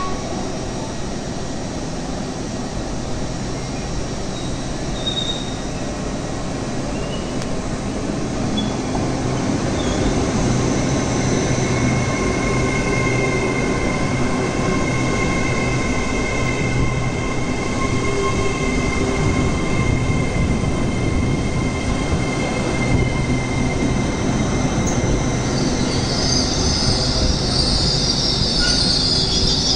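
A train running through the station, its noise growing louder about nine seconds in, with a low hum and steady high-pitched tones over the rumble. Near the end a harsh high hiss rises.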